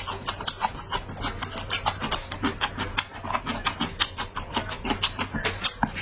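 A person chewing food with quick, irregular smacking clicks, several a second.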